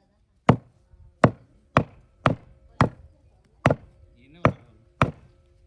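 A meat cleaver chopping goat meat, eight hard, sharp strikes at roughly two a second with a short pause in the middle.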